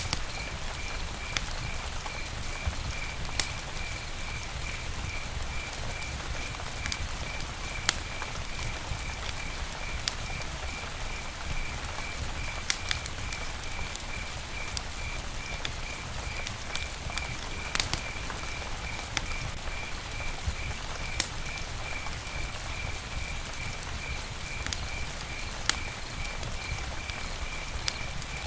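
Campfire burning, a steady hiss broken by scattered sharp pops and crackles of the wood. Behind it a high chirp repeats evenly, about twice a second, throughout.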